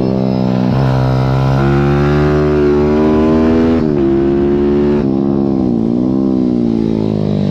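Small single-cylinder pit bike engine at racing speed, heard onboard: it revs up steadily through the gears with short breaks at each shift, then its revs dip and rise again in the second half as the rider eases off and gets back on the throttle.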